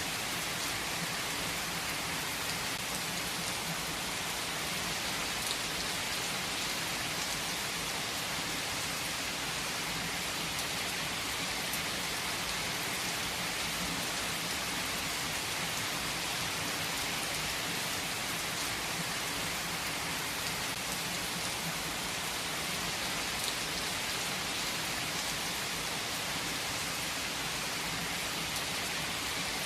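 Heavy rain falling steadily on surfaces, an even hiss of many drops with faint scattered drop ticks.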